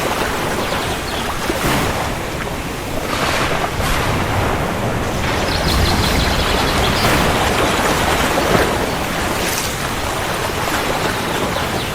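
Heavy rain pouring steadily, with a continuous low rumble underneath.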